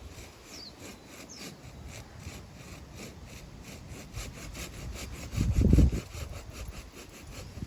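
Handsaw cutting through wood in quick, even back-and-forth strokes, about three to four a second. A brief loud low rumble comes about two-thirds of the way in.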